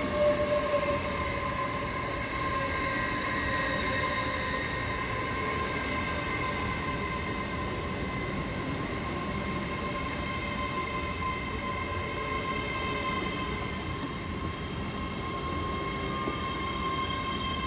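Class 800 IET train at the platform, its equipment running with a steady whine of several high tones over a low rumble. A lower tone eases down in pitch in the first few seconds.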